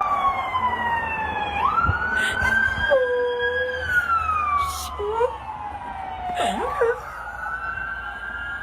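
A siren wailing, its pitch sliding slowly down and up again, with a dog giving short howls along with it a few times.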